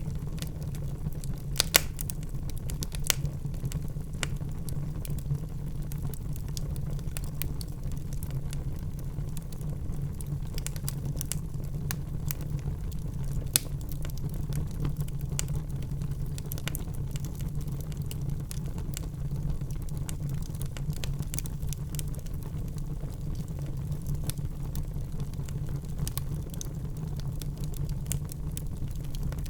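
Logs burning in a fireplace: a steady low rumble of flame with frequent, irregular sharp crackles and pops. There is a louder pop about two seconds in and another about halfway through.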